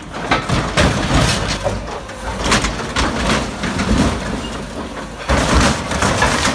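Steel truck bodies being crushed by a heavy crushing machine: repeated metal crunching, creaking and banging over a low engine rumble, with one heavy crunch about five and a half seconds in.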